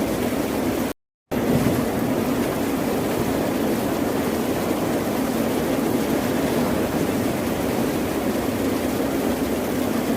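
Ocean surf as a continuous, even wash of waves. The sound cuts out completely for a split second about a second in, then carries on unchanged.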